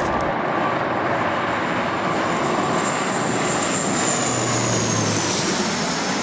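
Jet airliner passing low overhead on landing approach: loud, steady engine noise with a high whine that slides down in pitch over the second half as the plane goes past.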